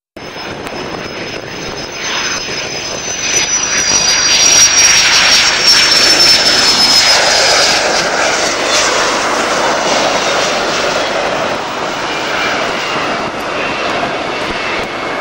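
Turbine-engined aircraft passing close by: a high whine slides slowly down in pitch as the engine noise swells to its loudest about five seconds in, then eases off.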